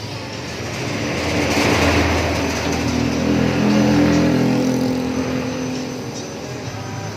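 A motor vehicle passing by, growing louder over the first couple of seconds and fading away again, over background music.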